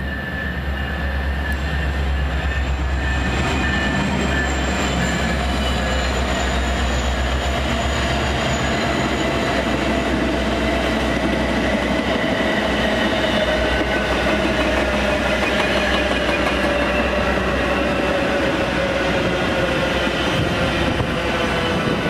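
Metra commuter train passing close by: a loud, steady rumble of wheels on rail, with thin ringing tones that slowly drop in pitch.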